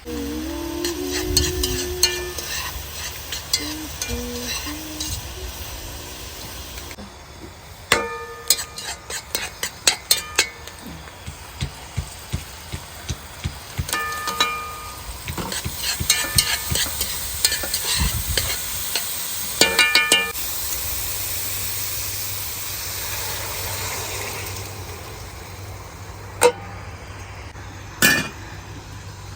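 Metal utensil clinking and scraping against a metal pot or bowl, many separate strikes that ring briefly, with a steady hiss like food sizzling building up in the second half.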